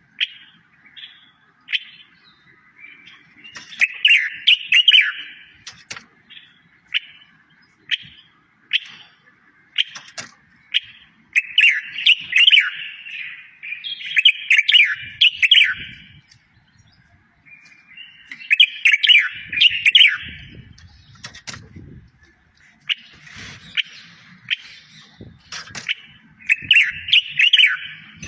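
Small songbird singing: single short high chirps about once a second, broken by several fast, dense warbling phrases.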